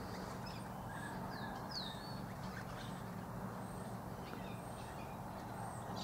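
Faint distant bird calls: a few short, high whistles, the clearest a quick falling-then-rising whistle about two seconds in, over a steady low background hum.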